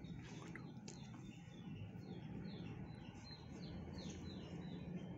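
A small bird chirping faintly: a quick series of short falling notes, thickest in the middle, over a low steady hum.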